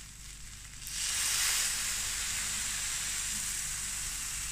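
Mutton kebab patties sizzling on a hot grill pan, the sizzle getting louder about a second in and then holding steady.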